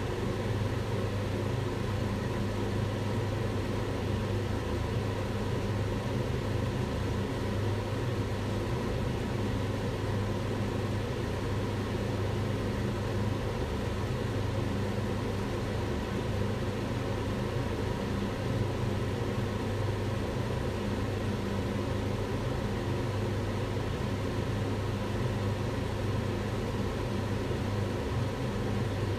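Kitchen range hood extractor fan running steadily, a constant rushing noise over a low motor hum.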